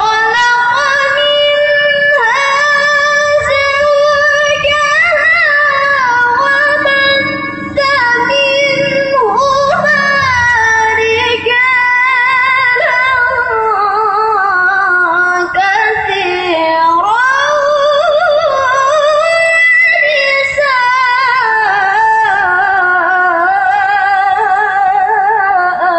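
Melodic Quran recitation in the tilawah style: one high voice chanting long, ornamented held notes that waver and glide up and down, with a short breath about seven seconds in.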